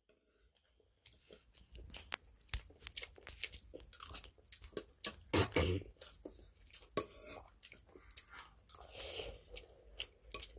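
Close-miked chewing of mapo tofu, with many small sharp clicks and smacks. The chewing starts about a second in.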